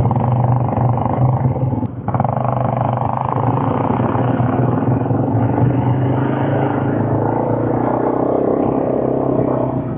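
Quad bike engine running steadily while riding, with a brief dip in level about two seconds in.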